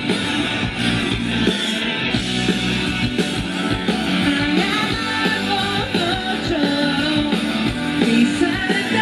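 Live rock band playing loudly, electric guitar and drums driving a steady beat, with a male singer singing over it.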